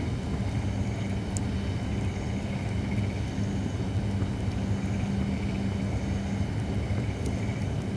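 Holly firewood burning in an open campfire, with a few sharp crackling pops, about one and a half seconds in and again near the end, over a steady low rumble.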